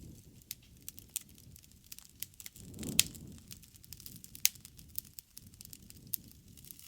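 Wood fire burning, with irregular sharp crackles and pops over a low flame rumble; the loudest pop comes about three seconds in.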